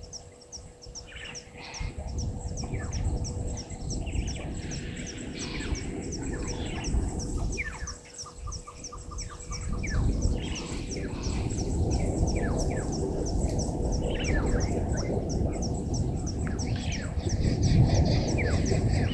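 Wild birds calling: a high, rapid call repeated evenly about four times a second throughout, with assorted short falling chirps from other birds, over a steady low rumbling noise.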